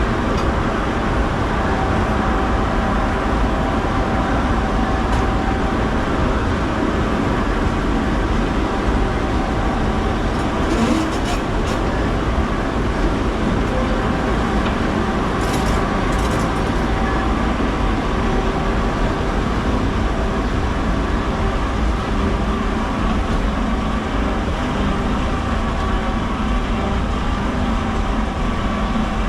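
Tram running steadily: a continuous rumble of motors and wheels on the rails with a faint steady whine. A few brief high squeals come in about a third and halfway through.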